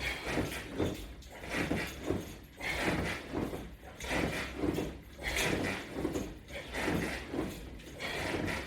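Rhythmic sounds of sit-ups against resistance bands on a Latch Bar attachment: a repeated rubbing, scraping stroke about twice a second, steady in pace.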